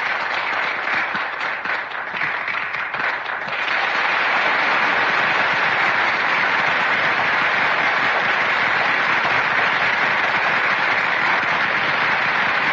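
Theatre audience applauding: scattered clapping for the first few seconds that thickens into steady, full applause about three and a half seconds in.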